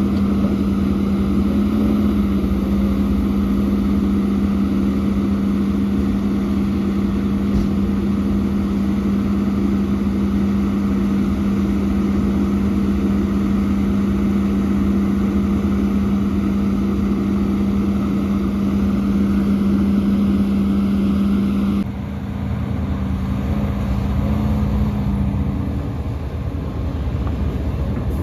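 Heavy diesel earthmoving machinery running with a steady, unchanging drone. About 22 seconds in, it cuts abruptly to a quieter engine sound whose pitch shifts a little.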